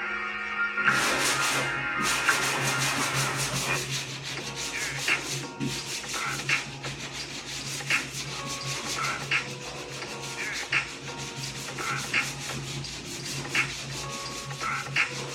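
Sanding on a car hood panel during body repair: repeated back-and-forth scraping strokes over a steady low hum.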